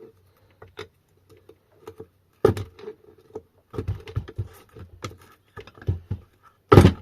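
A tool prying and tapping at a Sur Ron motor's cast aluminium side cover as it is worked loose: scattered light clicks and scrapes, with sharper knocks about two and a half seconds in and near the end.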